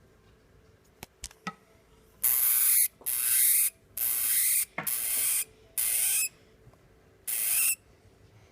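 Hamster hissing in six sharp bursts, each about half a second long, a defensive threat display. A few faint clicks come just before.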